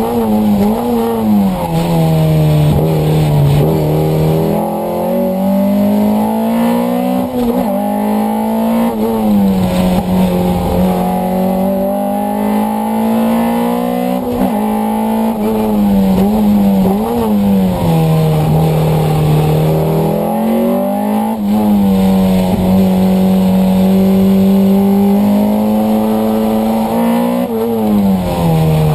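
Alpine A310's 1800 cc engine heard from inside the cabin at racing speed. It revs up through the gears, its pitch dropping sharply at each shift, with quick throttle blips on the downshifts into corners.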